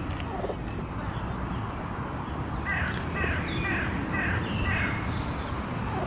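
An animal, most likely a bird, calling about six times in quick succession, a little under half a second apart, over a steady low background rumble.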